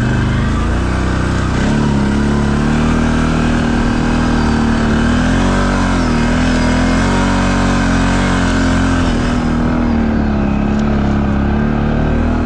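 ATV engine running hard under load as the quad climbs a muddy slope, its revs rising about a second and a half in, then held high with small rises and dips.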